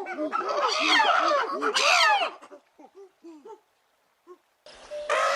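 Several animals giving many short, rising-and-falling cries in quick succession that thin out about halfway through, then a brief lull. A different, louder animal sound starts near the end.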